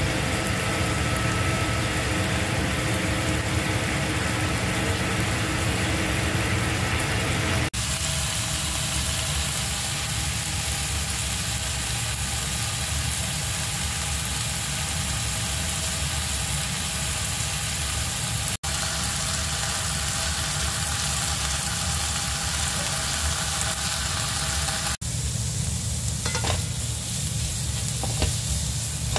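Chicken breast pieces frying in hot oil in a nonstick pan, a steady sizzle. Near the end, sliced onions sizzle as they are stirred with a wooden spatula, with a few scrapes.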